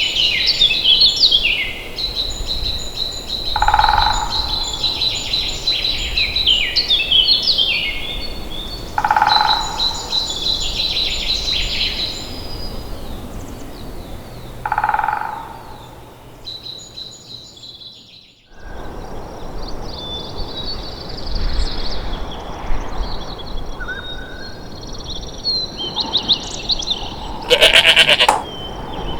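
Wild birds singing: repeated high, fast trilling phrases, with a short lower call every five seconds or so. After a brief drop about two-thirds of the way in, fainter chirps follow, then a loud rough animal call near the end.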